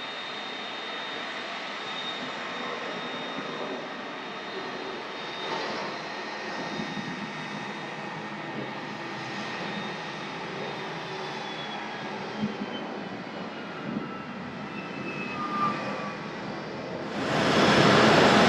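Jet airliner engines running with a steady high whine, and a falling whine in the second half. About a second before the end the jet noise jumps suddenly much louder.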